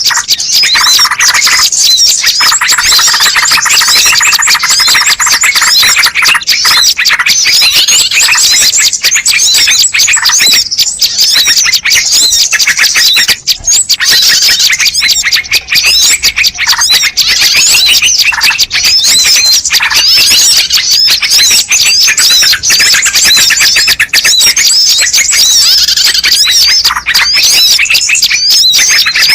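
A dense, unbroken chorus of small songbirds chirping and trilling rapidly and high-pitched, played loud as a bird-lure (pikat) call recording.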